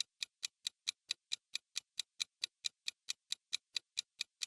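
Clock-style ticking of a countdown timer sound effect: sharp, even ticks, about four and a half a second.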